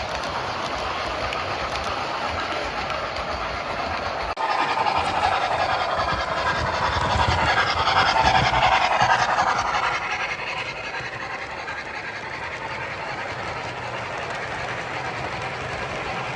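A train running with clicking wheels; after a cut about four seconds in it comes close, loudest around eight to nine seconds in, then fades as it passes.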